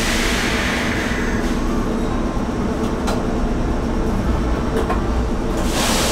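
A Kintetsu 19200-series express train standing at a platform with its door open: the steady hum of its onboard equipment, and a short loud hiss of air near the end.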